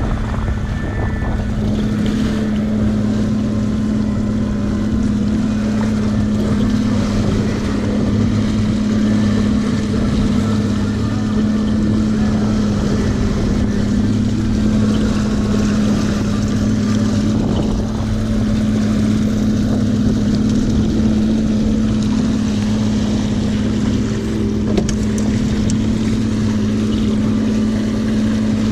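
Boat motor running steadily with a constant low hum, under a haze of wind and water noise.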